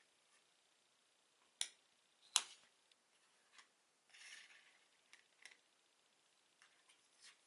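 Lego pieces being handled close to the microphone: two sharp plastic clicks in the first few seconds, the louder one about two and a half seconds in, then a brief rustle and a few lighter ticks.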